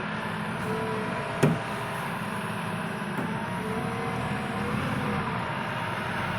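Diesel engine of a JCB backhoe loader running steadily while it works, with a faint wavering whine over it and a single sharp knock about a second and a half in.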